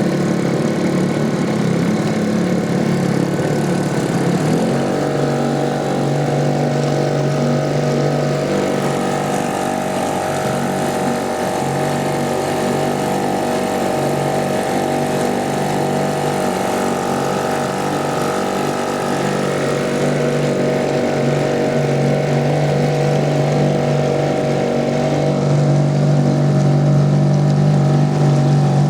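Small Fisher 2.5 outboard motor running on a boat, changing speed about four and a half seconds in and then running steadily.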